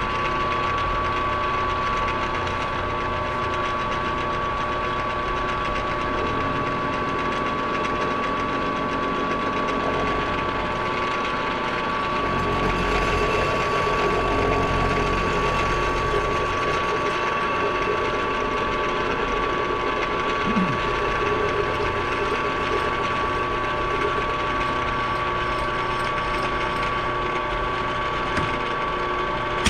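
Milling machine running with a steady whine and a busy mechanical clatter, taking a light cut a couple of thousandths deep on the welded ear of a Muncie four-speed's extension housing. The sound gets a little louder for a few seconds partway through.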